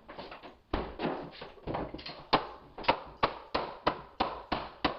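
Hardwood floorboards being knocked together into place: a quick run of sharp taps and thunks, about three a second.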